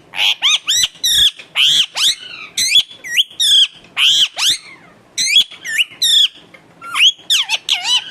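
Pet parrot giving a rapid run of short, shrill squawks and chirps, several a second with brief pauses. These are its natural calls, not mimicked words.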